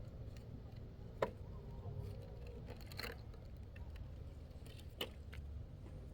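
A steady low rumble with a faint hum, broken by a few sharp clicks or knocks: one about a second in, a short cluster around the middle and one more near the end.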